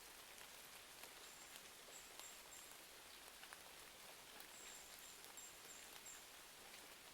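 Faint steady rain with scattered sharp crackles of a fireplace. Twice, a short run of high, thin chirps sounds over it.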